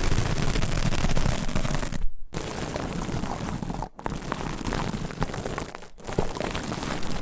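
Dense close-up crackling and rustling of an ASMR trigger object worked right against a stereo microphone, in stretches cut by brief silent gaps about two seconds apart.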